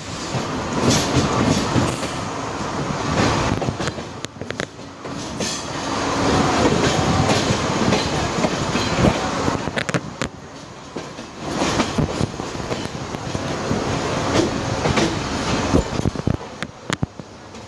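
Express passenger train running through a station yard, its coach wheels rumbling and clattering over rail joints and points in irregular clicks, heard close to the coach's side.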